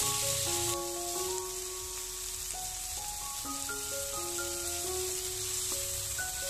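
Chopped onions, tomatoes and curry leaves sizzling in hot oil in a frying pan as they are sautéed, the sizzle easing a little about a second in. A simple melody of background music plays over it.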